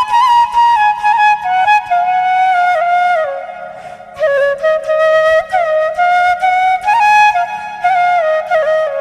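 Background music: a flute melody played over a soft steady accompaniment, with a slow phrase that drifts downward and settles on a low held note near the end.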